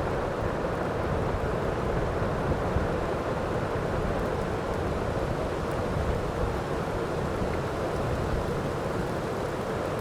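Heavy rain falling steadily: a dense, even wash of noise with a deep rumble underneath and no distinct thunder clap.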